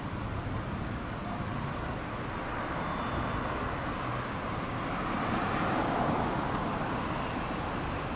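Steady outdoor traffic-like rumble and hiss from an electric commuter train pulling away and nearby road traffic, swelling about five to six seconds in. A faint high steady tone runs through it, and a brief high chirp sounds about three seconds in.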